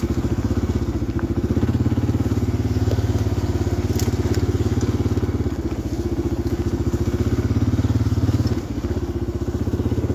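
1990 Yamaha XT350's single-cylinder four-stroke engine running under way on a dirt trail, a steady fast pulsing. The engine note drops briefly about eight and a half seconds in, then picks back up.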